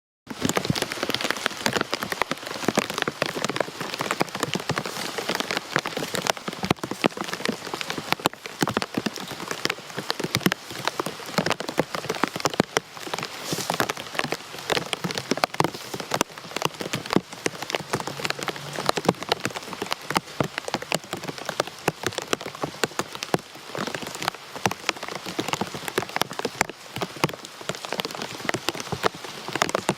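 Steady rain falling on a hard surface, with many separate close drop strikes ticking sharply over the even hiss of the downpour.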